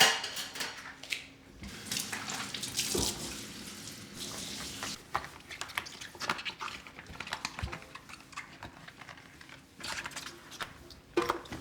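Water running from a kitchen tap into the sink for a few seconds, then stopping, among scattered light clicks and knocks of things being handled.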